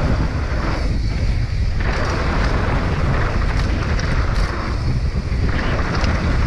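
Wind rushing over the action camera's microphone as a mountain bike is ridden fast down a dirt jump trail, with a few rattles and clicks from the bike underneath.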